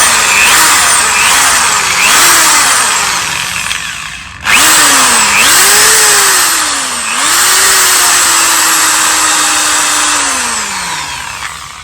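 Electric impact drill running free under its variable-speed trigger: the motor's whine rises and falls in several short pulses, stops briefly about four seconds in, then starts again, holds a steady speed and winds down near the end.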